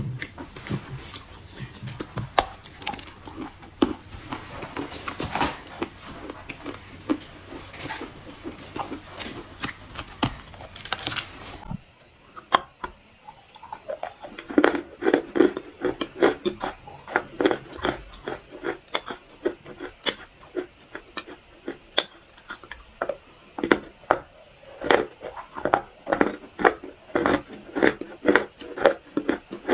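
Dry clay crunching and crumbling in a dense run of irregular crackles; a little before halfway the sound changes abruptly to duller, separate crunches coming about twice a second.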